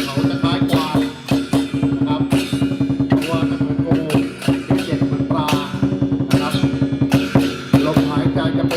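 Chinese show music: drums and cymbals beating a fast, steady rhythm, with a sustained ringing tone and a wavering melody line over it.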